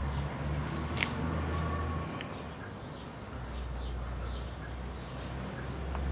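Small birds chirping in short, high calls, many times, over a steady low hum, with a sharp click about a second in.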